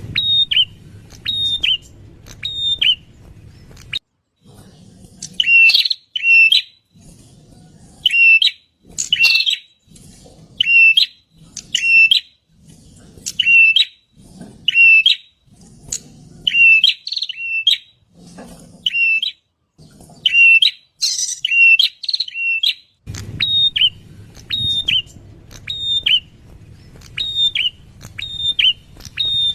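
A prinia (prenjak) calling over and over: short, sharp notes, each dropping slightly in pitch, given in quick pairs about once a second.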